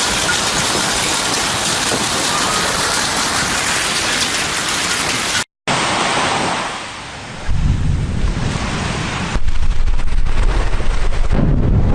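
Heavy rain pouring down in a steady hiss. About five and a half seconds in, a brief dropout, then another recording with a low rumble of strong wind on the microphone that swells about seven and a half seconds in and again near the end.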